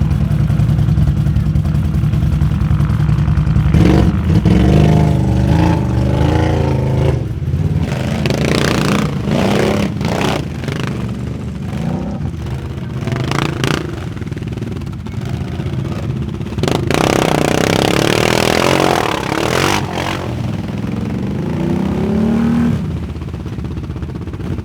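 4x4 ATV engines revving hard, their pitch climbing and dropping again and again, with clattering and noisy rushes in between.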